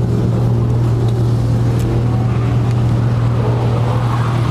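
A steady, unchanging low engine drone, with faint voices in the background.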